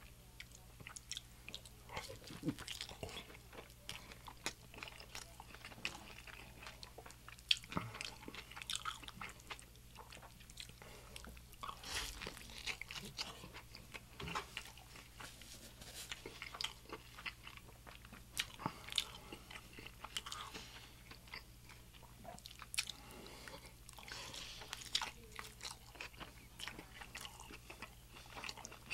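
Close-miked eating of crisp, consommé-dipped birria tacos: irregular wet bites, crunches and chewing with sharp mouth clicks throughout.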